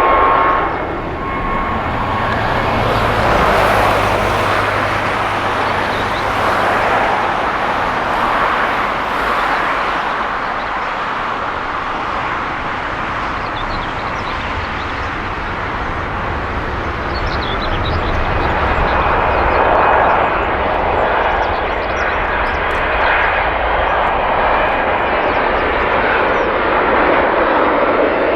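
Jet airliner engines: a loud, continuous rush of engine noise that swells and eases slightly a few times.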